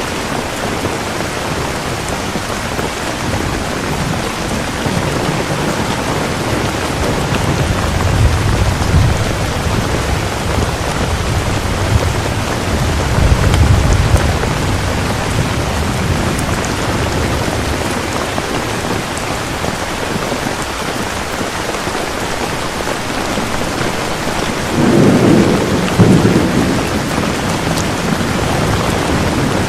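Steady, heavy rain falling with a constant hiss, with low rolls of thunder rumbling about a third of the way in and again near the middle. A louder thunder roll comes near the end.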